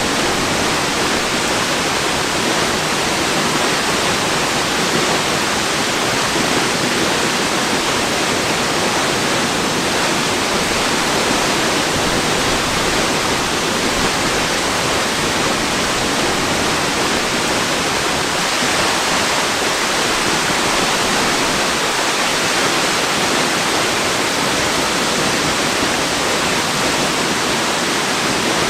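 Waterfall pouring: a steady, unbroken rush of falling water that does not change.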